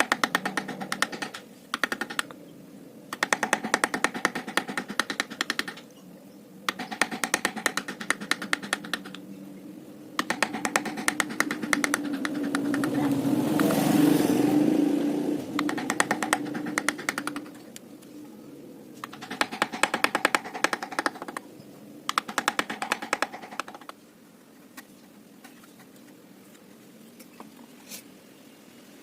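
Carving chisel being driven into teak by quick mallet taps, in runs of rapid tapping a couple of seconds long with short pauses between. Near the middle, a passing engine rises and fades, louder than the tapping.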